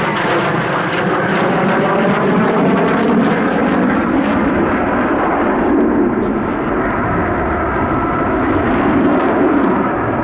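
Eurofighter Typhoon's twin EJ200 jet engines heard loud and continuous in flight, a dense jet noise with faint gliding tones in it. Its higher hiss dulls in the second half.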